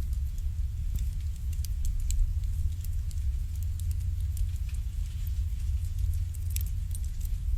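Wood fire burning in an irori sunken hearth: scattered small crackles and pops over a steady low rumble of the fire, with a brighter cluster of pops about a second before the end.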